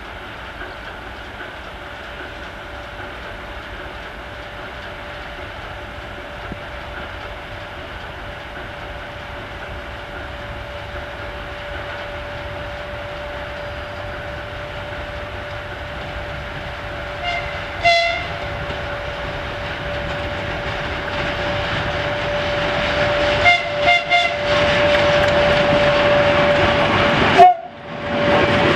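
2TE116 diesel locomotive approaching with a freight train, its running noise and a steady whine growing steadily louder. It sounds its horn in two short pairs of blasts, a little past halfway and again about six seconds later. There is a sudden loud burst just before the end.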